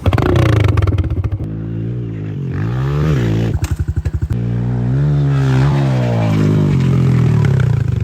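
Small pit bike engine revving up and down as it is ridden. It drops to a slow, pulsing chug off the throttle at the start and again around the middle.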